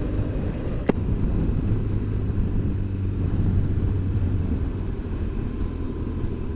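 BMW R1200GS Adventure's boxer-twin engine running at a steady cruise, with wind and road noise. A single sharp click sounds about a second in.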